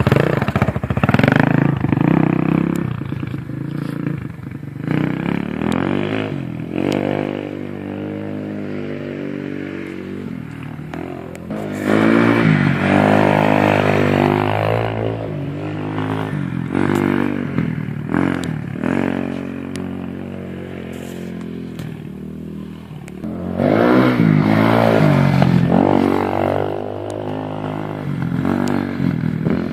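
Apollo 250cc dirt bike engine being ridden, its pitch rising and falling over and over with the throttle. It is loudest three times: at the start, about twelve seconds in, and about twenty-four seconds in.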